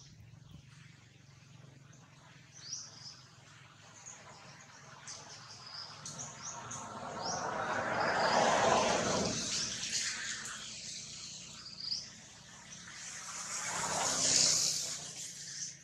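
Small birds chirping here and there. A broad rushing noise swells and fades twice, once about halfway through and again near the end, and is louder than the birds.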